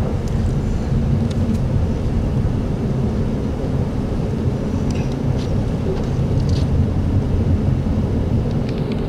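Car driving on a snow-covered road, heard from inside the cabin: a steady low rumble of engine and tyres, with a few faint clicks.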